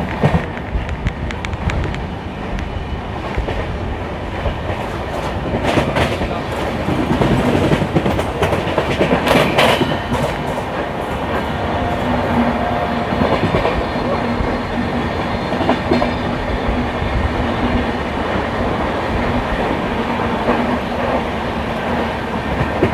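Passenger train running along the track, heard from on board its sleeper coach: a steady rumble with the wheels clattering over rail joints, two sharper clacks about six and ten seconds in, and a faint steady low hum from about seven seconds in.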